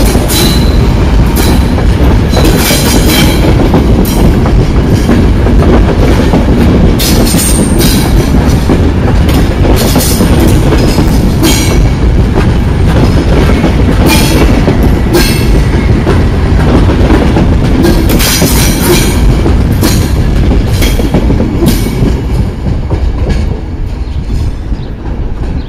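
Trenitalia Intercity passenger coaches rolling past at close range: a heavy, steady rumble with repeated sharp clatters of the wheels over the rail joints. The sound fades in the last few seconds as the tail coach moves away.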